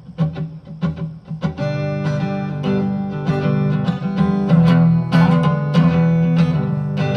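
Acoustic guitar opening a song: a few separate plucked notes, then steady strummed chords from about a second and a half in.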